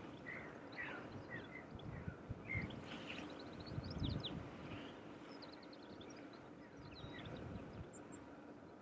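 Small birds chirping and twittering in short scattered calls, busiest in the middle seconds, over a low rumbling noise that swells briefly twice.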